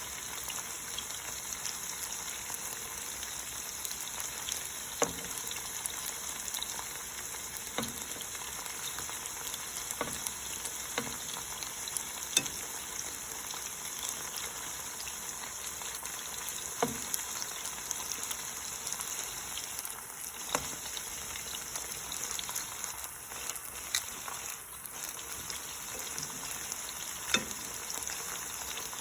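Cornstarch-coated chicken pieces sizzling steadily in hot oil in a pan, with a sharp click or tap every few seconds as the pieces are turned.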